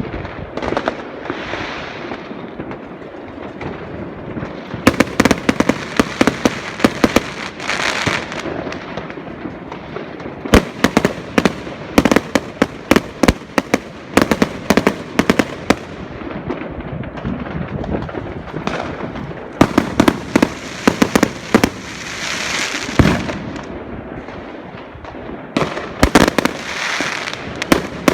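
Fireworks going off in rapid volleys of sharp bangs and crackles, with swells of hissing between the volleys.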